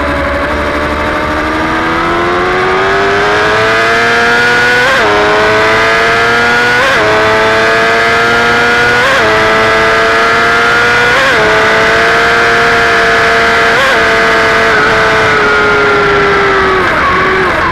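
Superbike engine under hard acceleration, heard from on board the bike: the pitch climbs and the engine shifts up five times, about every two seconds. Near the end the pitch falls as it eases off, with a couple of quick downshift blips.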